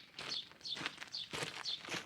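Footsteps on the ground, about two a second, while a small bird chirps over and over in short falling notes.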